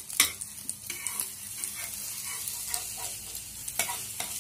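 Egg-battered bread slice sizzling in oil on a flat griddle pan, with sharp clicks of a metal spatula scraping under it and lifting it to flip it, once just after the start and twice near the end.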